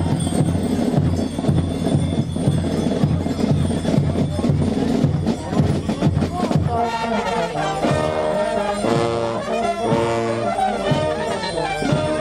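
Brass band music with drums: a dense, drum-heavy passage, then about six and a half seconds in a clear brass melody comes forward.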